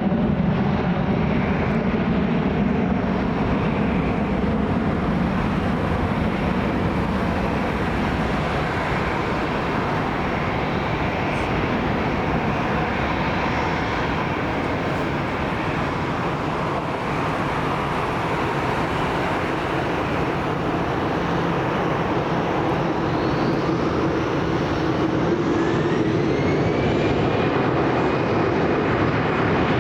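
Airliner jet engines running, a steady rushing noise with a faint whine, and a rising whine coming in about three quarters of the way through.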